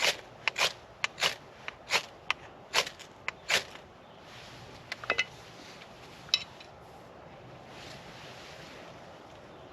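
Fire starter rod struck repeatedly to light tinder: six sharp scrapes in a steady rhythm, about one every two-thirds of a second, stopping about three and a half seconds in. A soft hiss and a few faint clicks follow.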